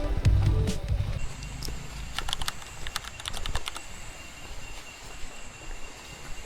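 Background music cuts off about a second in, followed by a cluster of light, rapid clicks and a faint steady high-pitched tone.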